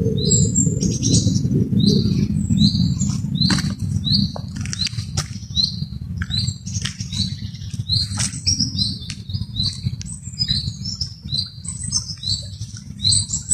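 A small bird chirping, short high notes repeated steadily more than once a second, over a constant low rumble.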